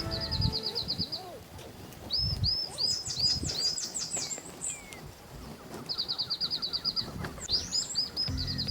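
Small songbirds calling at a watering spot: rapid high trills of about ten notes a second mixed with short rising whistles, and a quick run of falling notes near the middle. Background music comes in near the end.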